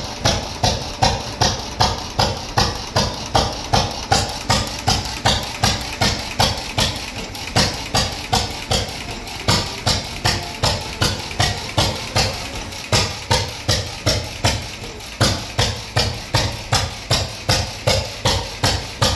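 1919 Fairbanks Morse Z 6 horsepower single-cylinder hit-and-miss engine running, chugging at about two beats a second, with a few weaker beats about two-thirds of the way through.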